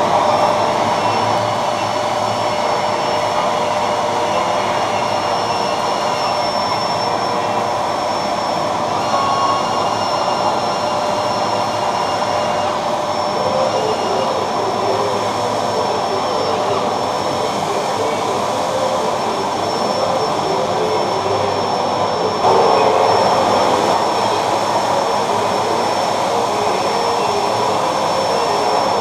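Steady whine and running noise of 1:14 scale RC trucks driving, with a few thin steady tones over it, a little louder about two-thirds of the way through.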